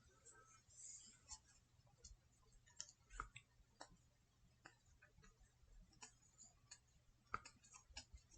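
Near silence with faint, irregular clicks, a dozen or so scattered through it.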